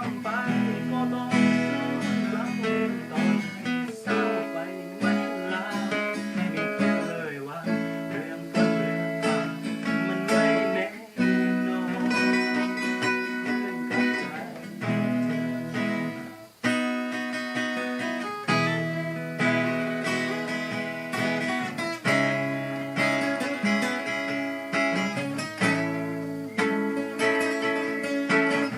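Acoustic guitar playing a continuous plucked and strummed passage of a song.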